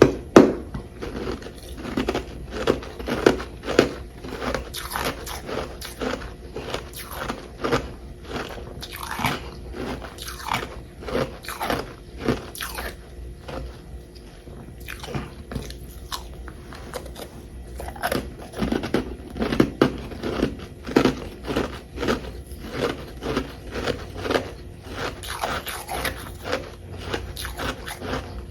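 Close-up biting and chewing of chunks of humidifier-grown freezer frost: a rapid run of crisp crunches, easing to softer chewing for a few seconds midway before the crunching picks up again.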